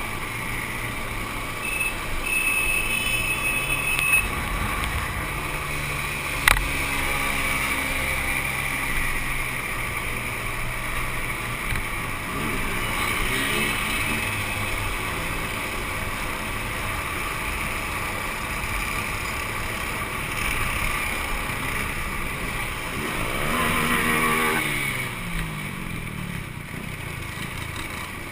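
Two-stroke motorcycle engines running, with engine pitch sweeping up and down twice, as bikes rev or ride past. A sharp click comes about six and a half seconds in.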